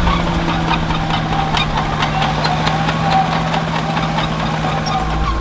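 Large farm-machine diesel engine running at a steady speed, with a light clatter of clicks over the hum. The engine note changes just before the end.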